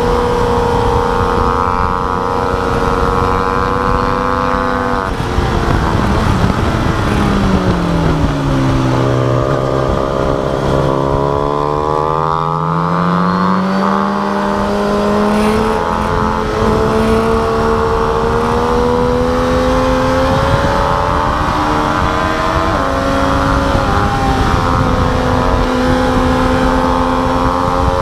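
Sport bike engine on a race track, heard from onboard with wind rush: held at high revs for about five seconds, then the throttle closes and the pitch falls into a corner. It stays low for a couple of seconds, then climbs again through gear changes and holds high, with one more shift a few seconds before the end.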